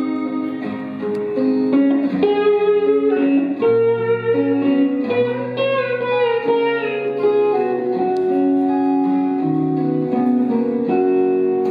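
Instrumental break in a blues song: guitar playing a melody over sustained bass notes, with no singing.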